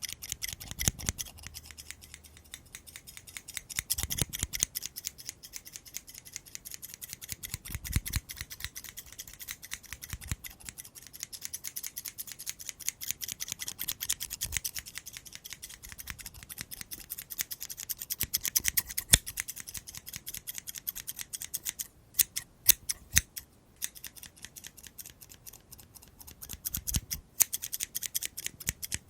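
Scissors snipping in a rapid, continuous run of quick cuts, pausing briefly twice near the end.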